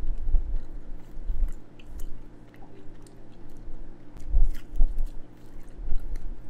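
A person biting into and chewing a BBQ-glazed chicken drumette close to the microphone, in a few bouts of chewing with small sticky clicks and crunches from the slightly crispy glaze.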